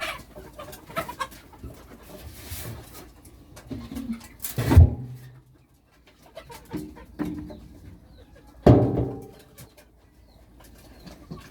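Domestic birds calling in a coop: pigeons cooing and chickens clucking, with two louder sounds about five and nine seconds in.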